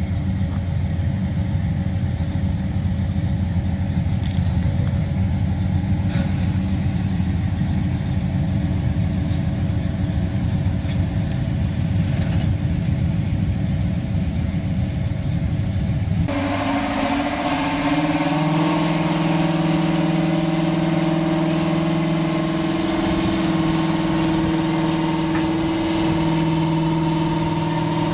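Tractor engines running: a deep, steady engine drone, then an abrupt cut about sixteen seconds in to another engine running at a higher, steady pitch.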